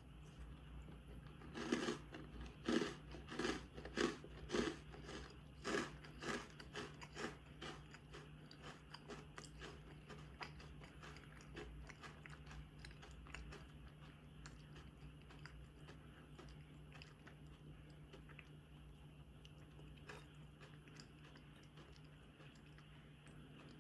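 A person biting into and chewing a crunchy sweet: loud crunches about twice a second for a few seconds, then quieter chewing that fades out around the middle.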